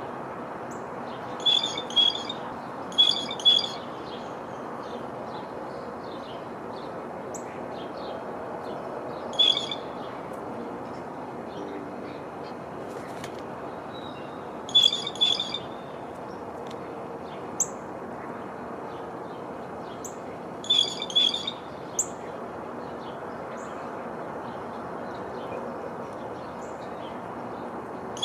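Small birds calling: short clusters of high, buzzy calls every few seconds, with a few thin single chirps between them, over a steady background hiss.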